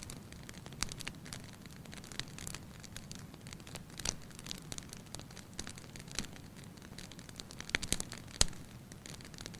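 Fireplace fire crackling: irregular sharp pops and snaps over a soft low rumble, with the loudest pops coming a little before the end.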